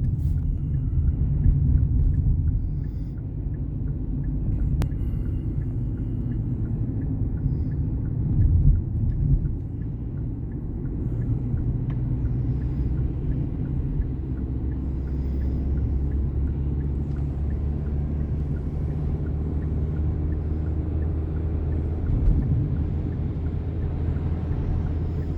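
Low, steady rumble of a motor vehicle's engine and road noise, swelling briefly about eight seconds in.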